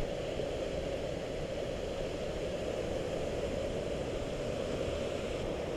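Steady rushing roar of a waterfall, even and unbroken throughout.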